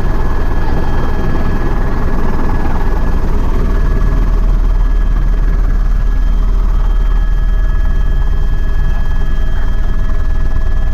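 Helicopter in flight heard from inside the cabin: a steady low rotor and engine noise with a constant high turbine whine over it.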